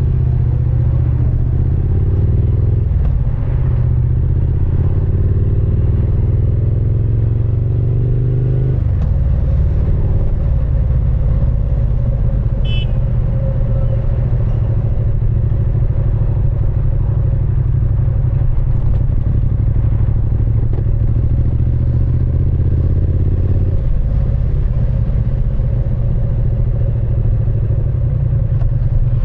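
Triumph Speed Twin 900's 900 cc parallel-twin engine and exhaust under way. The engine note rises for the first several seconds, drops about nine seconds in, then holds fairly steady with another shift in note near the end.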